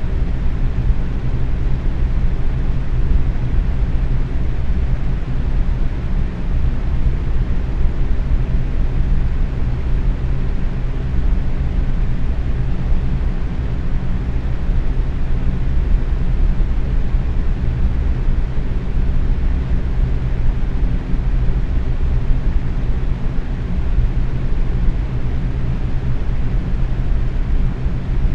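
Box fan running steadily at medium speed: an even rush of moving air with a low motor hum underneath.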